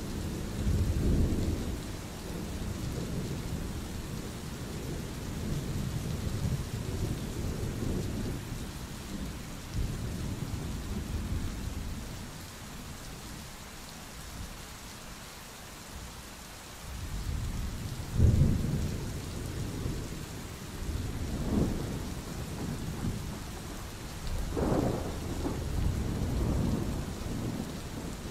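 Thunderstorm: steady rain with thunder rumbling on and off. The rumble eases off for a few seconds midway, then a sharper thunderclap comes about 18 seconds in, with more claps near the end.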